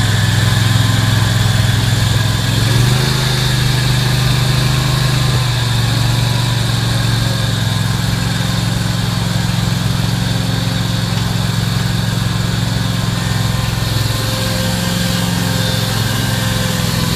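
Scag Tiger Cat II zero-turn mower engine running steadily with the choke off, its speed rising slightly about three seconds in.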